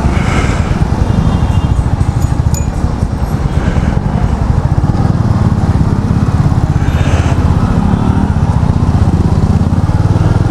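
Royal Enfield Meteor 350's single-cylinder engine running under way, a steady fast low beat that grows stronger about halfway through, with brief rushes of hiss near the start and again later.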